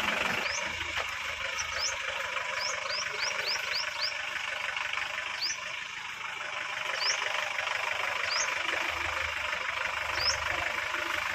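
Steady outdoor background noise with a vehicle engine idling low, and about a dozen short, quickly rising chirps from a bird scattered through it.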